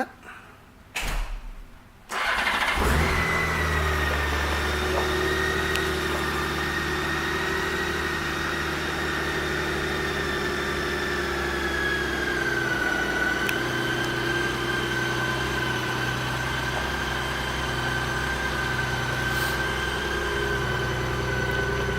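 A 2006 Honda GL1800 Gold Wing's flat-six engine is started: the starter cranks for about a second, the engine catches, then idles steadily. Its idle pitch eases down slightly about halfway through.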